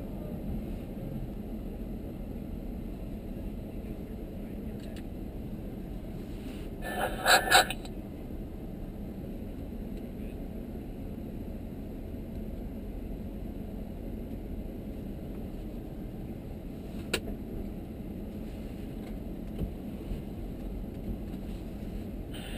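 Steady low hum of a stationary car's cabin, the Audi S7 idling with its systems running. About seven seconds in there is a short loud burst, and about seventeen seconds in a single sharp click.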